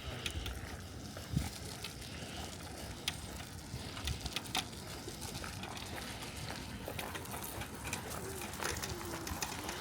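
Outdoor ambience picked up on the move by a small camera's built-in microphone: a steady background hiss with a few scattered light knocks.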